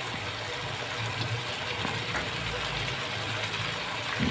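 Steady low sizzle and hum of vegetables frying in a pot over a low gas flame while cooked rice is tipped in on top, with a soft knock near the end.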